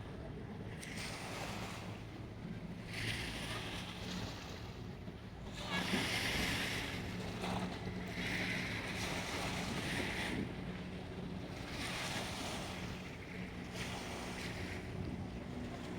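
Harbour waves splashing and washing against the shore in repeated surges about every two seconds, over a steady low hum.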